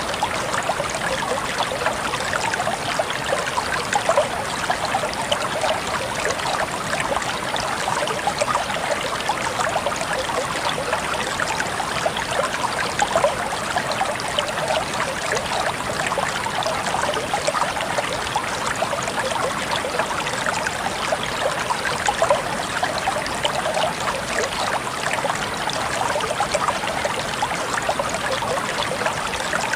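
Flowing stream water babbling and trickling steadily, a continuous rush flecked with many small splashes.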